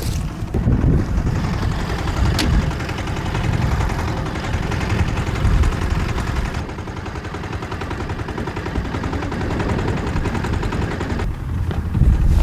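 Small fishing boat's engine running with a fast, even knocking beat over a low rumble, with wind on the microphone; a single sharp click about two and a half seconds in.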